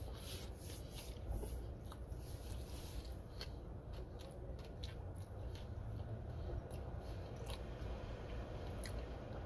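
A person chewing a mouthful of pizza with the mouth closed, making scattered small wet clicks, over a low steady hum.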